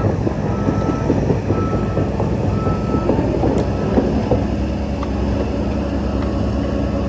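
Heavy diesel earthmoving machinery running steadily with some clatter. A reversing alarm beeps about once a second, three times, then stops about three seconds in.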